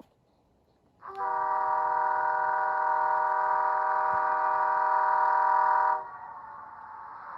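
Sampled F40PH locomotive air horn played by an ESU LokSound 5 sound decoder, starting about a second in as one steady multi-tone blast held for about five seconds, then dropping to a quieter hiss that rises again near the end.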